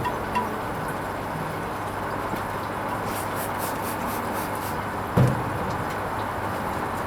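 Hoover Vision HVP16 washing machine running its Silks 30 wash: steady running noise of the drum and water, with one dull thud about five seconds in.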